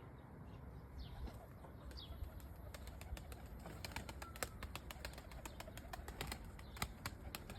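Turkish tumbler pigeons moving about: faint scattered wing flaps and sharp taps, coming thick and fast after about three seconds. A few thin, high, falling chirps sound in the first two seconds.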